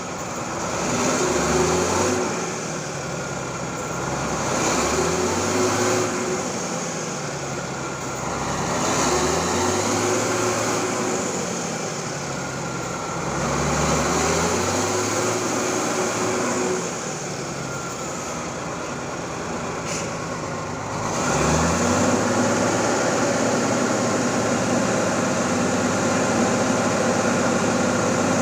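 Truck diesel engine revving up and dropping back again and again, about every four seconds. About two thirds of the way through, it settles into a steady run at higher revs.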